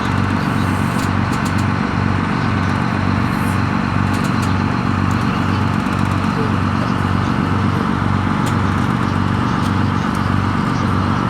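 Tour boat's engine running steadily, heard from on board: a low hum that pulses evenly, over a haze of water and wind noise.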